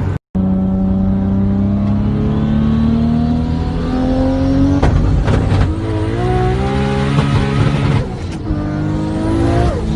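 Toyota Supra's turbocharged engine accelerating hard: the exhaust note climbs steadily for several seconds, breaks with a few sharp cracks about halfway through, then rises again and drops at each gear change.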